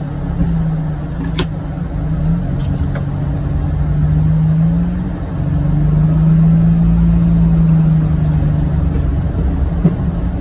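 John Deere Gator UTV engine running steadily, its note dropping and rising a few times, with a few faint ticks.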